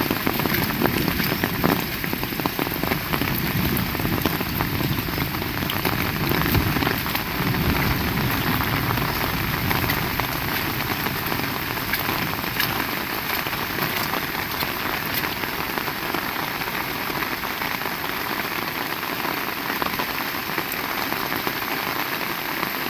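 Heavy rain falling steadily, with many individual drops ticking on surfaces. A low rumble under the rain in the first several seconds dies away.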